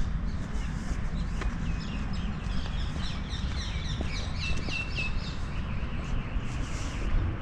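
Small birds chirping in quick series of short notes, busiest a few seconds in, over a steady low rumble on the microphone.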